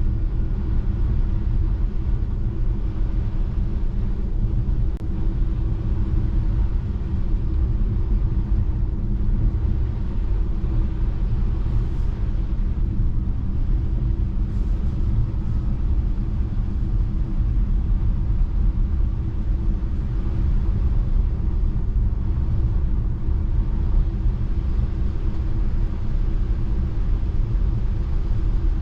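Steady low road rumble of a Tesla Model 3 driving on a snow-covered road: tyre and road noise, with no engine sound from the electric car.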